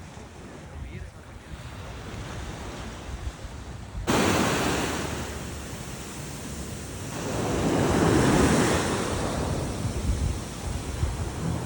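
Sea waves rushing, with wind buffeting the microphone. The rushing is fainter at first, jumps abruptly much louder about four seconds in, and swells again a few seconds later.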